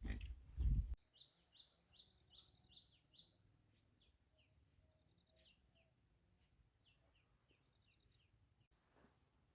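A loud low thud in the first second, then a small bird chirping: a quick run of short, high, falling chirps about three a second, followed by scattered single chirps.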